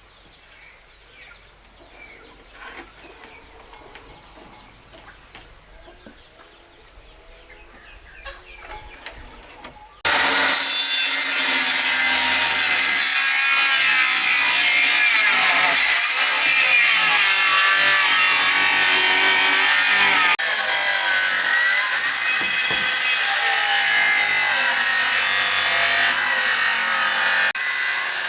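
Faint small sounds, then about a third of the way in a power saw starts loudly and cuts wood continuously, its pitch wavering as the blade works through the timber.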